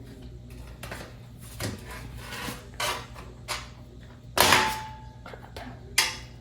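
Parts of a box fan being pushed and handled during disassembly: scattered clicks and knocks, the loudest a clank with a short ring about four and a half seconds in.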